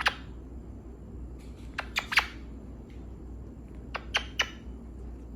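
Pet parrot giving short, sharp squawks: one at the start, then two quick bursts of three, about two seconds apart.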